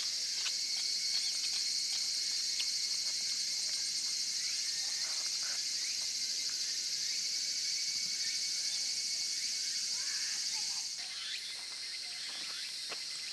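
Steady high-pitched chorus of insects, shifting and dropping slightly near the end, with a few faint ticks and knocks underneath.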